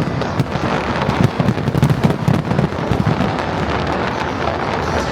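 Aerial fireworks going off in quick succession: a dense run of crackles and pops over a low rumble, thinning a little toward the end.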